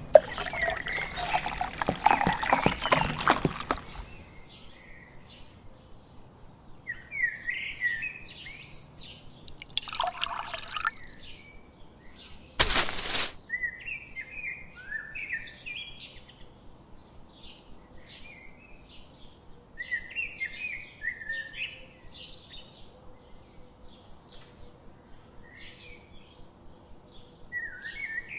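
Small birds chirping and twittering in short repeated calls. Water pours in the first few seconds, and there is a single sharp knock about halfway through.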